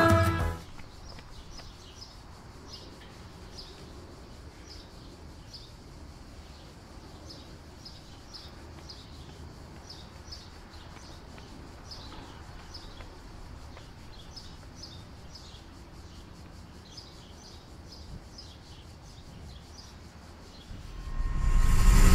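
Small birds chirping repeatedly in short, high calls over a faint, steady outdoor background. Music cuts off about half a second in, and a loud low rumble swells up near the end.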